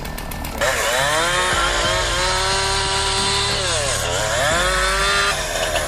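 Two-stroke chainsaw revved to full throttle about half a second in and held at a high, steady whine. The revs sag once briefly in the middle and pick up again, then drop back to a lower rattle near the end.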